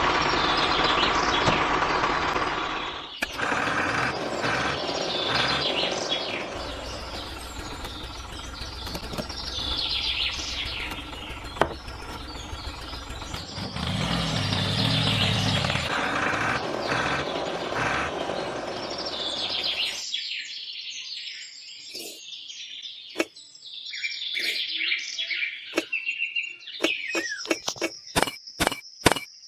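Small birds chirping in short, repeated falling calls over a steady background hiss. Near the end comes a quick run of sharp taps or clicks, about three a second.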